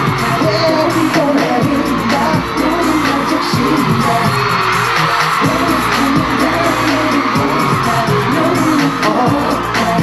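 Live Korean dance-pop song: a singing voice over loud backing music with a steady beat.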